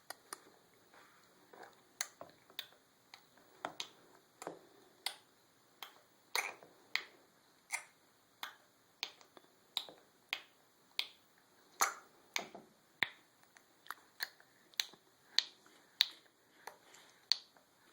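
A long series of sharp single clicks, somewhat under two a second and a little uneven, made by a seven-month-old as the noise she keeps repeating.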